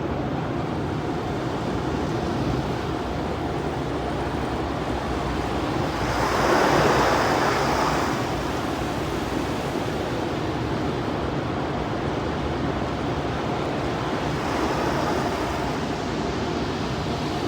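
Steady rumble and rushing noise inside a moving truck's cab, with a louder whoosh that swells and fades about six to eight seconds in.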